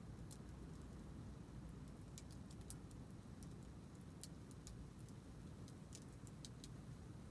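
Wood campfire crackling faintly: scattered, irregular sharp pops and snaps over a low steady rumble.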